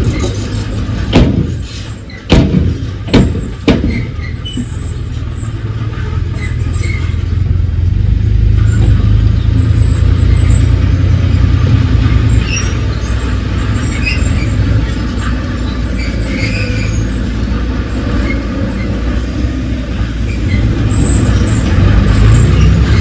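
Heavy diesel earthmoving machine running with a deep, steady rumble, with a few sharp knocks in the first four seconds.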